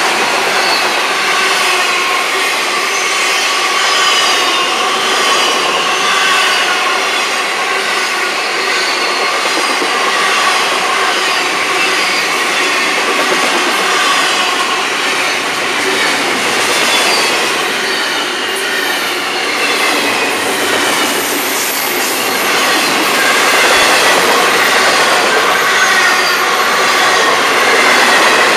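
Florida East Coast intermodal freight train's double-stack well cars rolling past, a steady rolling clatter of steel wheels on rail. Over it run many high wheel squeals that slide down in pitch.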